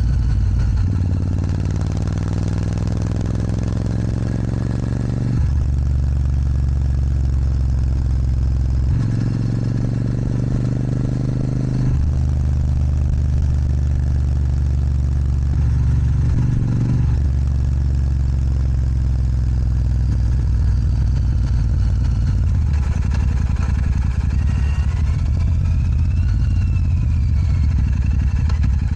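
Royal Enfield Super Meteor 650's parallel-twin engine running through an aftermarket Rhino Racing sports exhaust while riding. The engine note rises under acceleration and drops sharply about five and twelve seconds in as it shifts up, then runs more steadily.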